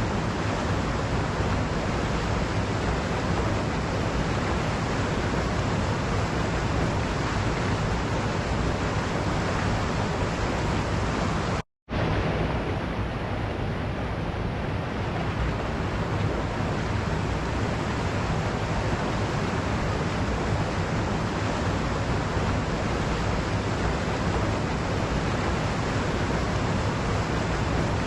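Waterfall rushing in a steady, dense hiss of falling water. The sound cuts out completely for a split second a little before halfway, then resumes.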